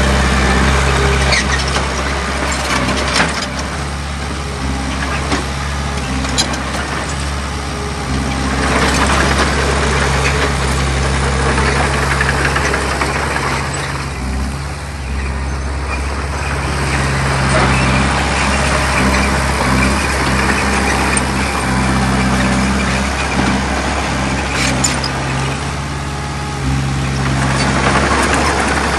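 Heavy diesel earthmoving machinery running continuously, with its noise swelling in several long stretches as it works under load, and a few sharp knocks.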